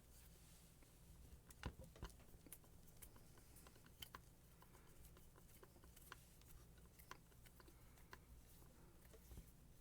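Faint scattered clicks and taps of tools and small metal parts being handled while an angle grinder's gearbox is taken apart, over a low steady hum.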